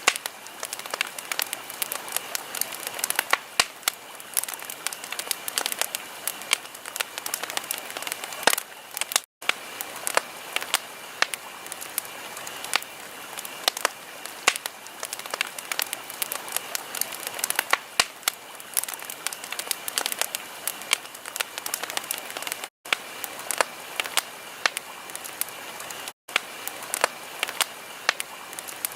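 Wood fire crackling, with many sharp pops of varying strength over a steady hiss. The sound cuts out for an instant three times.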